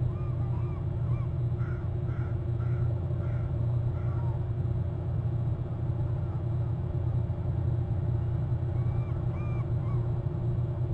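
Birds calling in short bursts of brief arched notes, a few at a time, near the start and again near the end, over a steady low rumble.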